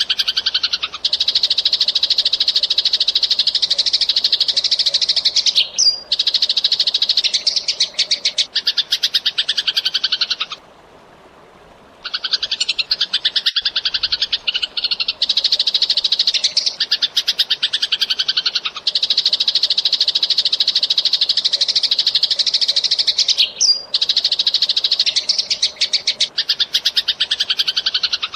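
Eurasian tree sparrows chattering in rapid, tightly packed runs of chirps. The runs last several seconds each, with one short pause about ten seconds in.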